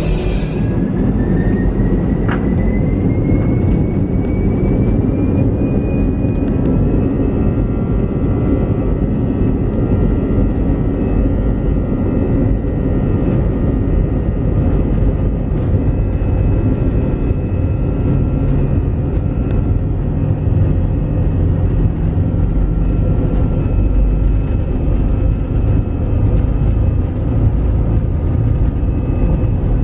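Airbus A320-200 jet engines heard from inside the cabin: a whine rising in pitch over the first several seconds and then holding steady over a loud, continuous rumble, as the engines spool up to high power, typical of the takeoff run.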